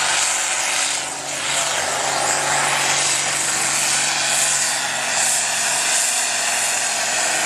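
Antique farm tractor engine running at full throttle, loud and steady, as it pulls a weight-transfer sled down the track; the sound dips briefly about a second in, then holds.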